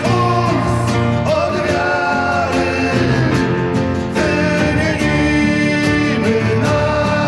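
A song: a voice singing long held notes over steady instrumental accompaniment.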